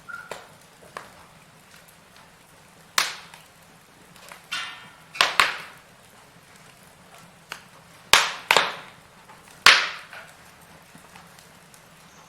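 Firewood burning, crackling with sharp pops: several loud ones about three, five, eight and nearly ten seconds in, with smaller ticks between and a brief hissing sputter just before the pop at five seconds.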